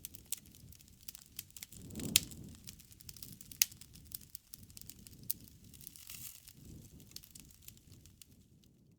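Wood fire crackling: a low steady rush with many scattered sharp pops and snaps, the loudest about two seconds in.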